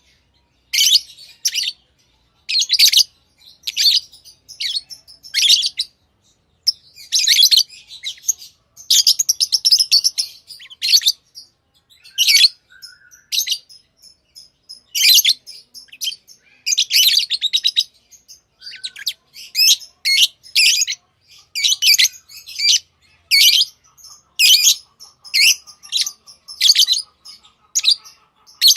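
Pet lovebirds calling: high-pitched chirps about once a second, broken by runs of quicker chattering.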